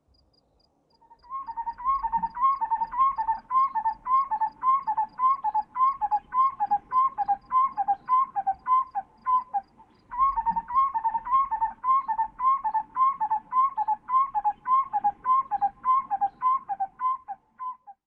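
A bird whistling a fast series of short calls, about three a second, with a short break around nine seconds in before the calls start again. Faint high ticking runs under the first half.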